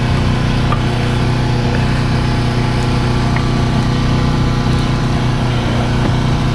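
A steady, low-pitched engine-like hum at an even level, with a few faint metallic ticks.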